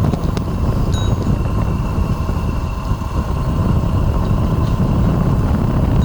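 Wind rumbling on the microphone while riding an electric bike, with a faint steady high whine running underneath.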